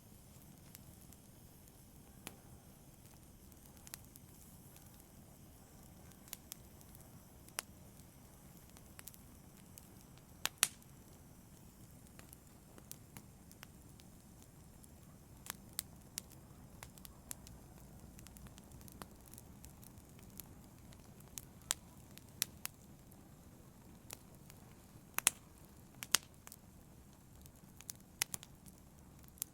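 Wood fire crackling in a fireplace: irregular sharp pops and snaps over a low steady rumble of flame, with a few louder pops.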